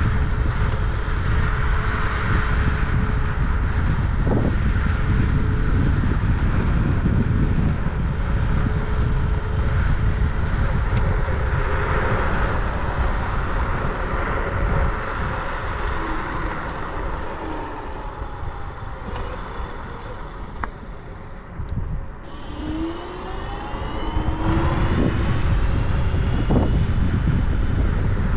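Wind rushing over the microphone while riding, with road and traffic noise. The noise eases for a few seconds past the middle, and there faint rising and falling whines are heard.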